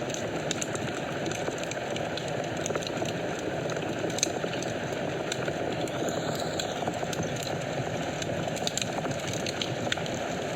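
Wood fire in a fireplace burning: a steady rushing of flames with scattered sharp crackles and pops, one louder pop about four seconds in.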